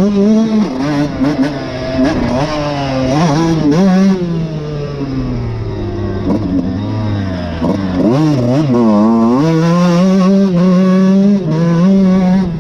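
Suzuki RM125 two-stroke single-cylinder motocross engine revving up and dropping back repeatedly as the bike is ridden through the gears, then holding high revs steadily for the last few seconds.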